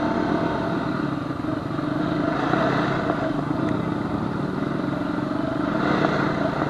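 Honda FourTrax quad's engine running at a steady trail-riding speed, its pitch holding nearly level with small throttle changes.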